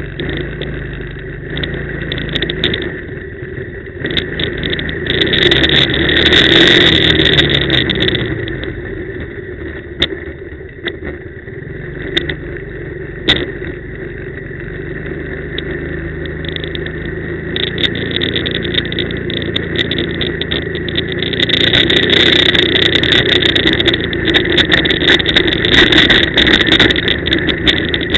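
Quad bike (ATV) engine running under way, its revs rising and falling in steps. It gets louder twice, about five seconds in and again from about twenty-one seconds, with scattered knocks and clatter.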